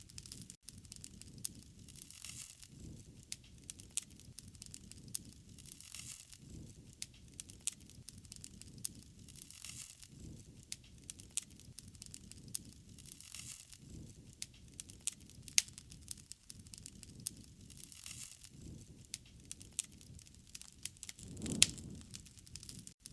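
Wood fire crackling, with frequent sharp pops and a soft low rushing that swells and fades every few seconds.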